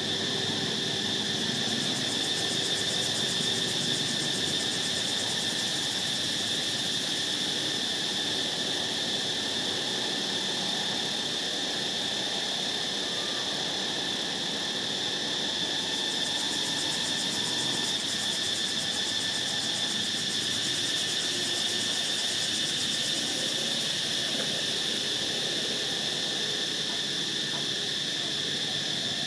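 Steady insect chorus, a constant high-pitched buzzing drone that holds unchanged throughout.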